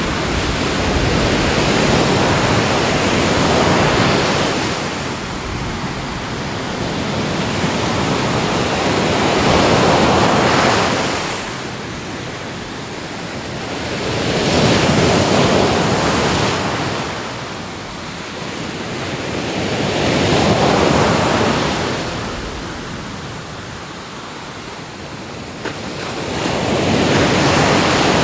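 Ocean surf: waves breaking and washing up the shore in slow surges, one about every five to six seconds, with a steady hiss of surf between them.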